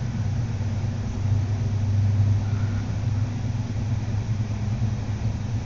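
Moving train heard inside the passenger carriage: a steady low hum and rumble that swells slightly about two seconds in.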